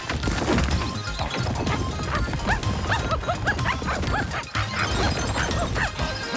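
Cartoon soundtrack: background music mixed with slapstick crash and whack sound effects. In the middle comes a quick run of short, high chirping squeaks.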